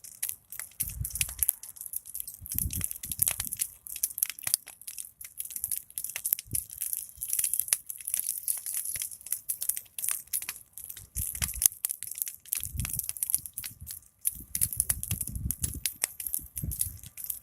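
Large wood fire crackling, with a dense, irregular run of sharp snaps and pops and a low rumble of the flames that swells and fades several times.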